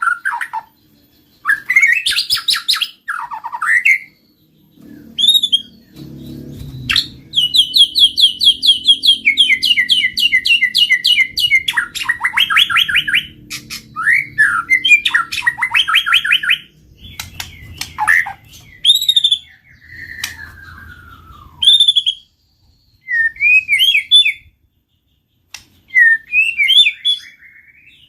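White-rumped shama (murai batu) singing: a varied run of loud whistled phrases and slurred notes, with long fast trills in the middle and short pauses between phrases.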